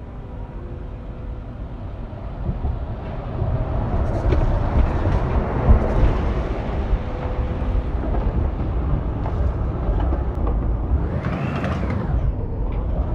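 City street traffic: a vehicle passes close by with a low rumble that swells a couple of seconds in. A brief whine rises and falls about eleven seconds in.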